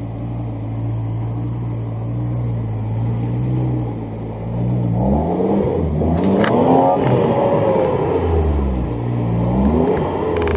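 A 4x4 off-roader's engine holds a steady note, then revs hard up and down from about halfway as the vehicle churns through a mud-filled gully. A second rise and fall in revs comes near the end.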